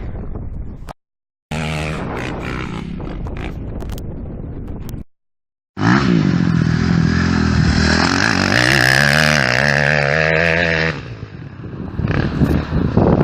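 Kawasaki KX250F motocross bikes' 250cc four-stroke single-cylinder engines revving under load, in short segments broken twice by a moment of dead silence. The loudest run, a little under halfway in, has the engine pitch rising and falling as the throttle is worked.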